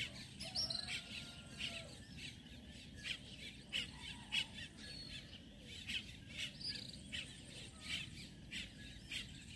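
Birds chirping: a steady run of short chirps, several a second, with a brighter, higher whistled note about half a second in.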